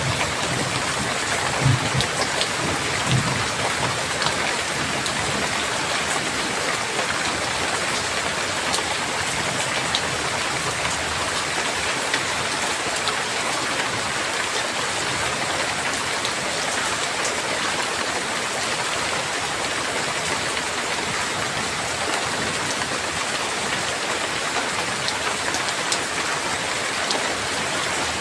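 Heavy rain falling steadily in a dense, even hiss, with a few brief low thunder rumbles in the first few seconds.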